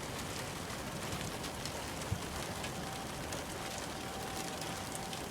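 Steady rain falling outdoors, an even hiss with scattered ticks of drops. A faint steady tone comes in about halfway through.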